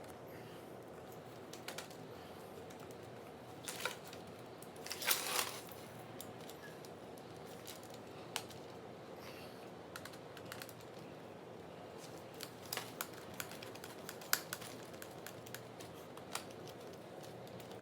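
Scattered light clicks and taps from hand work on lawn chair webbing and its aluminum frame, with two short rustling scrapes about four and five seconds in and a run of small ticks near the end.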